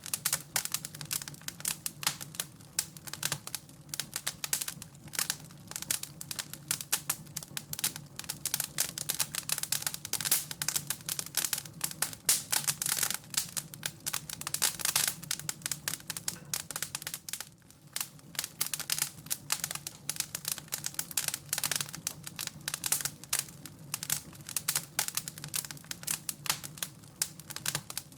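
Fire in a fireplace crackling, with dense, irregular pops and snaps throughout.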